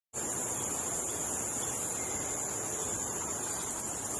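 Steady, high-pitched chirring of an insect chorus, cutting in suddenly just after the start.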